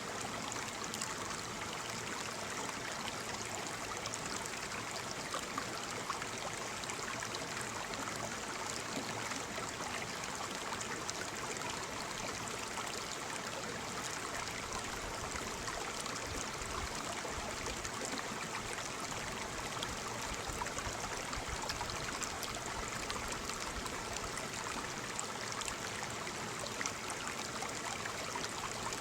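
Waterfall: water falling and splashing in a steady, dense rush with fine crackle and no pauses.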